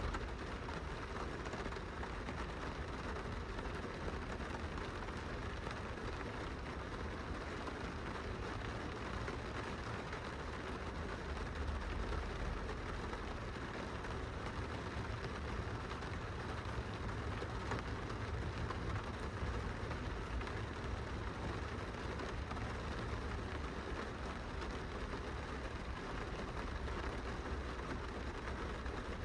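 Steady rain pattering on window glass, heard from inside, with a constant low rumble underneath.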